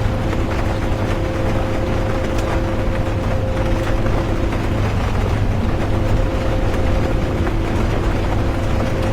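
Inside a moving bus: a steady low rumble of engine and road with a constant droning hum, and faint light ticks of rain.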